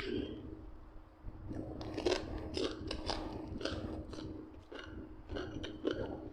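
A person chewing and crunching a mouthful of grilled beef and fresh greens close to the microphone, with a quick run of irregular crisp bites.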